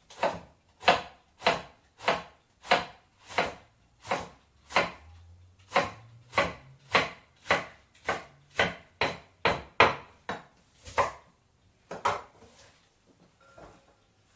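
Kitchen knife chopping salad vegetables on a cutting board, a steady stroke about every half second to two-thirds of a second. The chopping stops about three-quarters of the way through, and a couple of lighter knocks follow.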